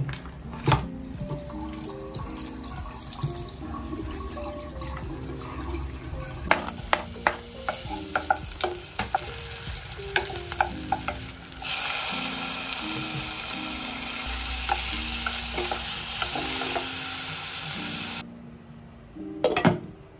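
A wooden spatula stirring and tapping sliced onions in a frying pan, then a steady sizzle of food frying that cuts off abruptly a couple of seconds before the end. Soft background music plays underneath.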